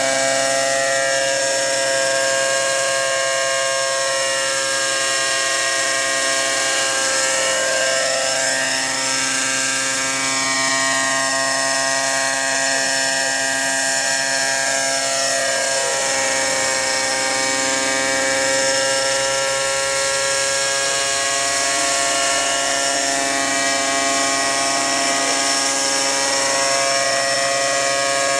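Hirobo Shuttle Sceadu radio-controlled helicopter's small glow engine, fitted with a Fantech muffler, running steadily at a constant high pitch together with the whirring of its rotors. Now and then the pitch sweeps slowly down and back up.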